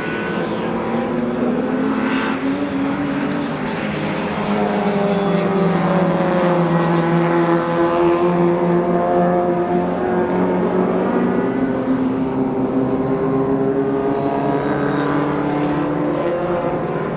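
Classic Mini racing cars' four-cylinder engines running hard at high revs, their pitch rising and falling with throttle and gear changes, more than one engine heard at once.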